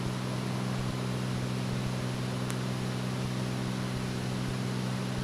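Cessna 206's six-cylinder piston engine and propeller droning steadily in cruise, heard inside the cockpit.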